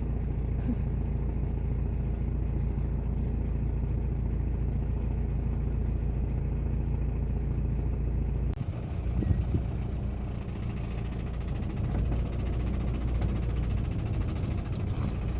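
Safari vehicle's engine running steadily, its sound shifting about halfway through.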